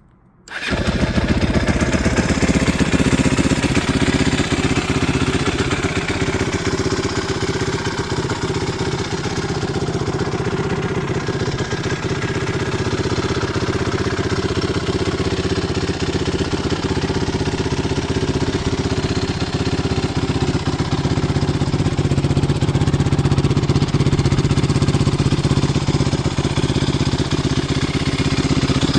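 2009 Kawasaki KLX450R dirt bike's single-cylinder four-stroke engine running steadily at idle, freshly rebuilt after a transmission failure. It comes in loud about half a second in and holds an even beat with no revving.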